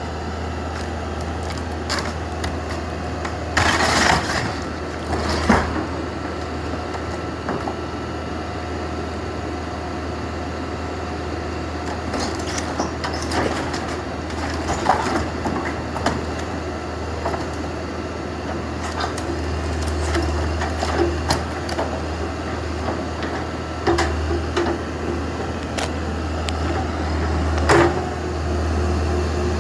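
Backhoe's diesel engine running steadily under load, with scattered crashes and cracks of the garage being broken apart by the bucket; the loudest crash comes about four seconds in, and another near the end.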